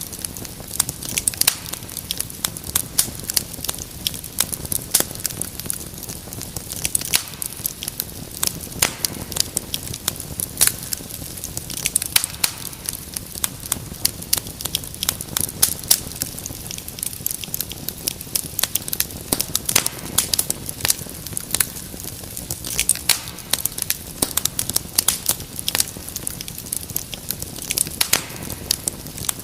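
Wood fire crackling in a fireplace: many irregular pops and snaps over a steady soft hiss.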